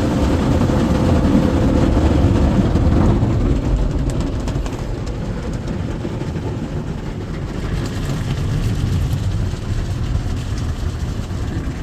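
Ryko Softgloss XS rollover car wash running over the car, heard from inside the car: a loud, steady rush of water and machinery, easing off a little about halfway through.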